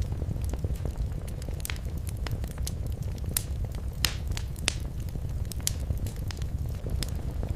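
Wood fire burning in a fireplace: a steady low rumble with irregular sharp crackles and pops, a few louder pops in the middle.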